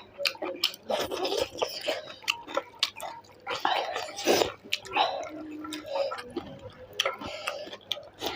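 Close-up eating sounds: irregular wet chewing, smacking and slurping as chicken and soup are eaten.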